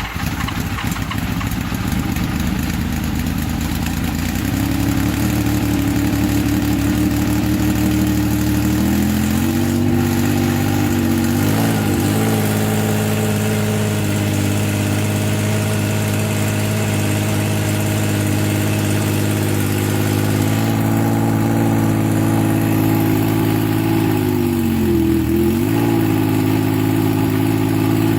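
Laverda V6 motorcycle's V6 engine running just after starting, idling with revs stepping up over the first several seconds. The revs wobble briefly about twelve seconds in, and dip and recover near the end.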